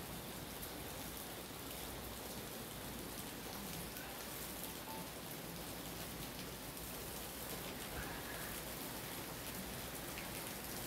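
Steady rain falling on trees and broad-leaved plants: an even hiss that holds at the same strength throughout.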